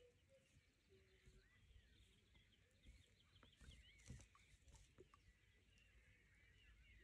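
Near silence, with faint birds chirping throughout and a few soft clicks and knocks, the most distinct about four seconds in.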